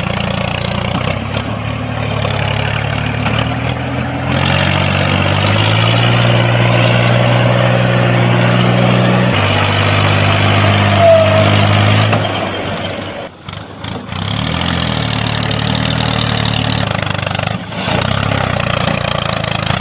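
A mini tractor's engine running steadily. Its pitch steps up about four seconds in, then drops back at around nine and twelve seconds. The sound cuts out briefly twice near the end.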